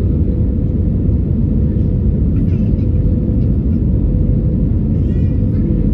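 Steady low rumble of an Airbus A320 airliner's engines and airflow, with a short pitched sound about five seconds in.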